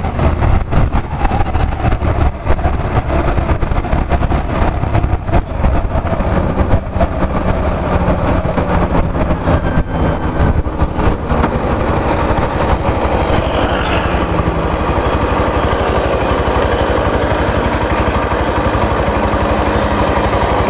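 Yamaha FZ-X motorcycle's 149 cc single-cylinder engine running under way, with heavy wind buffeting on the microphone.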